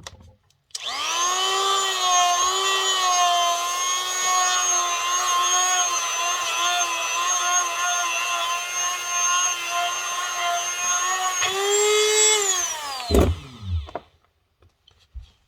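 Handheld electric rotary power tool, a grinder, running at a steady high whine to clean up the metal edge around a stuck final-drive bevel gear bearing so it can come out. The pitch sags a little as it bites, then the tool winds down about 13 seconds in, with a knock as it stops.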